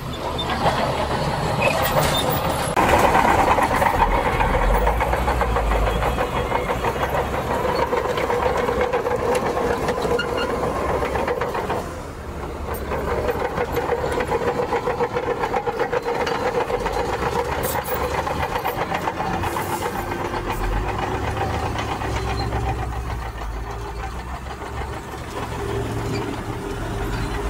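Heavy diesel earthmoving machinery running steadily, a deep engine rumble under a steady whine; the sound drops briefly about twelve seconds in, then picks up again.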